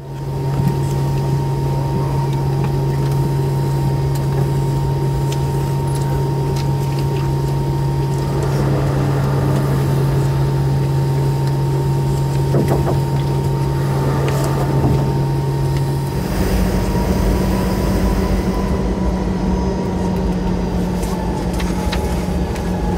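Cabin noise inside a McDonnell Douglas MD-90 airliner: a steady hum from its tail-mounted IAE V2500 turbofans and cabin systems. About two-thirds of the way through, the hum steps up in pitch and a deeper rumble comes in.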